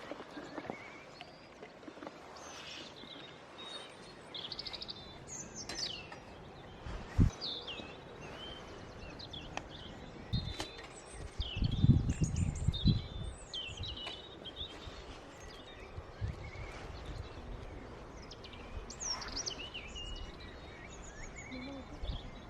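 Several songbirds singing and chirping in short, varied phrases. A sharp low thump sounds about seven seconds in, and a second or so of low rumbling knocks comes around twelve seconds, the loudest part.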